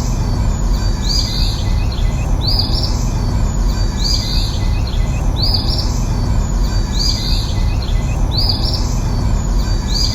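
A bird calls over and over, a short rising call about once a second, over a steady background noise.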